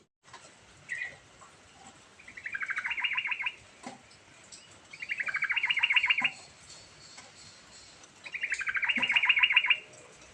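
Yellow-vented bulbul singing: three fast chattering phrases of rapidly repeated notes, each about a second and a half long, with a short single note about a second in.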